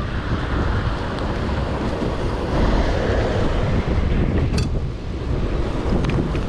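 Wind buffeting the microphone in a storm: a heavy, steady rumble, with a single sharp click about four and a half seconds in.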